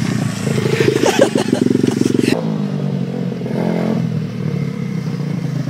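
Small pit bike engine running and revving hard, then dropping abruptly to a lower, steadier run about two and a half seconds in.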